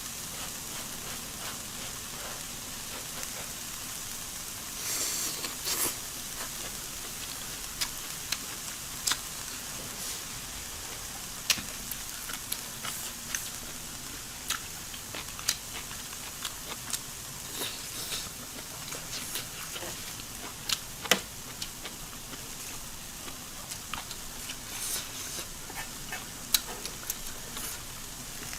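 Shrimp and vegetables sizzling on an electric grill: a steady hiss with frequent sharp pops and crackles of spitting fat and juice.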